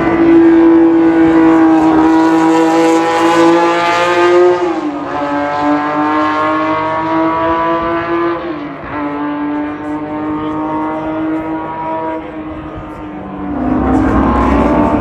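Historic race car engine at full throttle, its note climbing steadily with two upshifts about five and nine seconds in, then fading as the car pulls away. Another car's engine comes up loud near the end.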